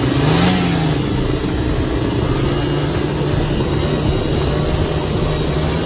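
A 1999 Honda 80R dirt bike's small single-cylinder engine running steadily. Its pitch rises and falls briefly in the first second, a short blip of the throttle.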